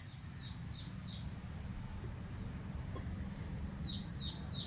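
Faint small-bird chirps, a few short high calls in two groups, about half a second in and again near the end, over a low steady hum.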